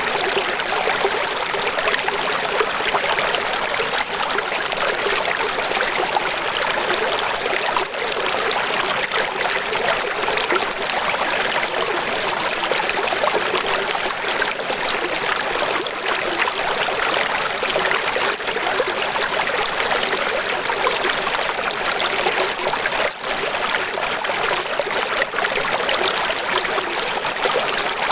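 Running water rushing steadily and evenly, a constant hiss-like flow with little bass and no swells or breaks.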